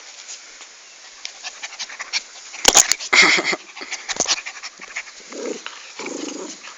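Dogs playing: panting, with scattered clicks and scuffling throughout. A loud cluster of sharp knocks comes about three seconds in, and two short, lower sounds come near the end.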